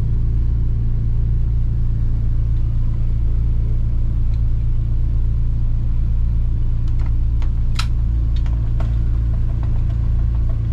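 Boat motor running steadily at low speed while the boat is manoeuvred, a constant low hum, with a few faint light clicks in the second half.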